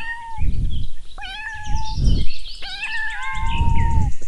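Kitten meowing: three high, drawn-out mews, each rising at the start and the last one the longest. Low rumbling noise fills the gaps between the calls.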